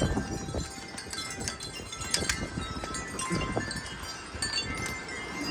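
Metal wind chimes ringing rapidly and irregularly, tossed by strong gusting wind, with the wind rumbling on the microphone.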